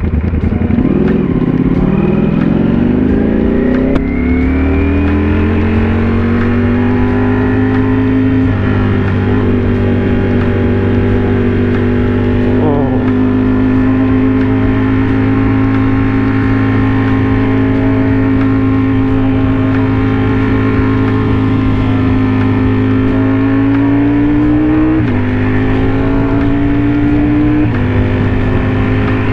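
Motorcycle engine pulling away, its pitch rising over the first few seconds before settling into a steady cruising note. Near the end the revs climb and drop sharply twice as the rider shifts up.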